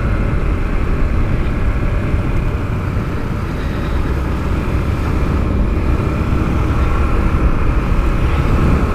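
Honda XR250L's single-cylinder four-stroke engine running steadily while the bike is ridden, under a heavy low rumble.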